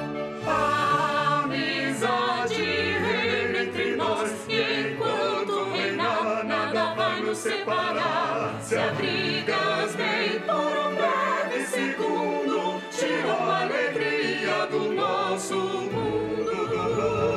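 Choir singing a slow, stately song with orchestral accompaniment, voices wavering with vibrato.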